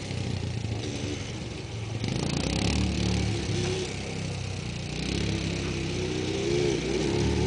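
ATV engine running and being revved in the sand, its pitch rising and falling as the rider works the throttle to climb the slope.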